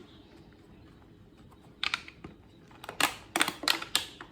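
A run of sharp clicks and clatters from hard objects knocking: a short group about two seconds in, then a denser, louder run near the end.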